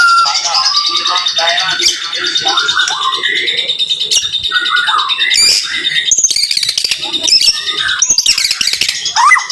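White-rumped shama (murai batu) singing a fast 'tembakan' run: a dense string of varied whistles, quick chirps and sharp notes sweeping up in pitch, one after another without pause.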